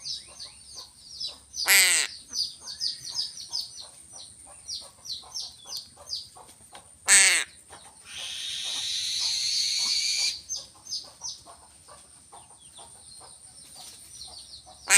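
Crows giving two loud, harsh caws that fall in pitch, about two seconds in and again around seven seconds, over steady rapid high-pitched chirping from other birds. A two-second hiss comes in the middle.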